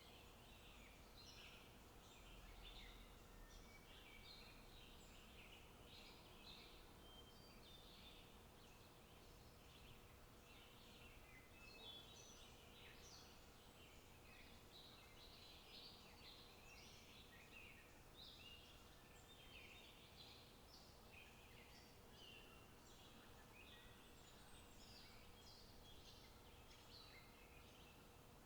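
Faint birdsong: small birds chirping in short high notes, overlapping almost without pause, over a low steady hiss.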